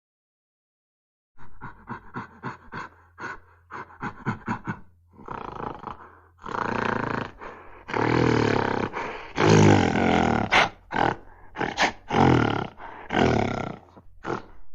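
A big cat roaring: a quick run of short grunts, then several long, loud roars one after another from about six seconds in.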